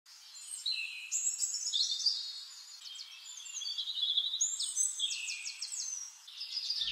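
Birdsong: a continuous run of high chirps, whistles and quick trills, thin with no low sound beneath it.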